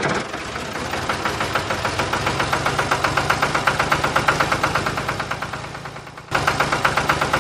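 Mini diesel engine running with an even, rapid knocking beat. It grows fainter, then comes back louder about six seconds in.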